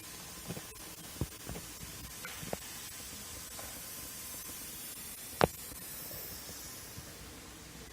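Steady hiss with a few light knocks in the first few seconds and one sharp, much louder click about five and a half seconds in.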